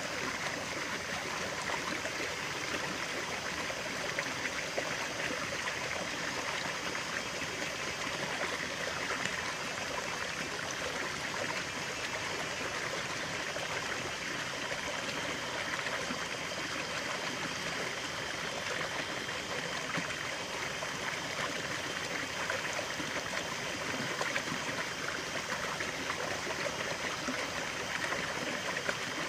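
Natural stream of running water flowing and trickling over rocks, a steady, even babble.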